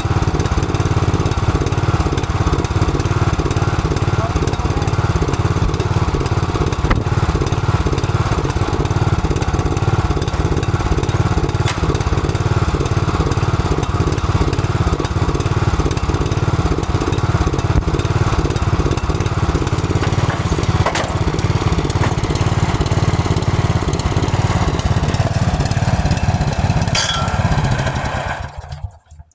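John Deere riding lawn mower engine running steadily on a homemade dyno, then shutting off near the end, its sound dying away over about a second.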